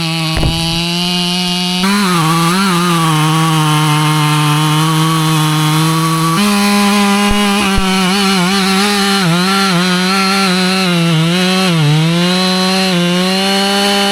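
Husqvarna chainsaw running at high revs while cutting white oak, the engine note dipping and recovering over and over under the load of the cut.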